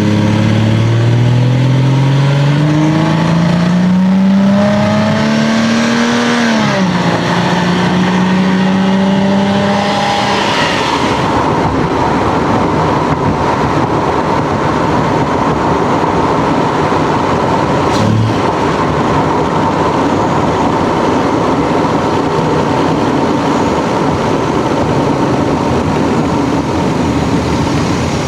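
Lexus GS300's 2JZ straight-six accelerating, its note rising steadily, then dropping sharply about six and a half seconds in, as at an upshift, and holding steady. From about ten seconds in the engine note fades into a steady rush of road and wind noise, with a single click about eighteen seconds in.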